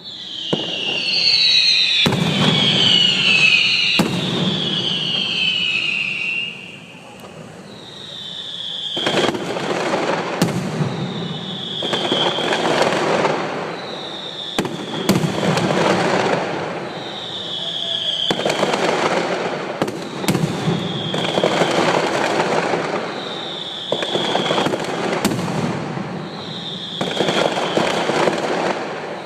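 Fireworks display. Several whistling shells fall in pitch together at the start. Then comes a steady run of short whistles, about one every two seconds, each with sharp bangs and a burst of crackling.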